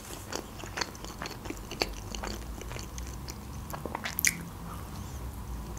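Close-miked chewing of a mouthful of homemade pizza: many small wet mouth clicks and crunches, with one sharper click a little past four seconds in.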